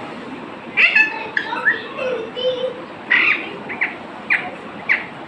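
A bird giving a series of short squawks and chirps, some of them quick falling notes, starting about a second in.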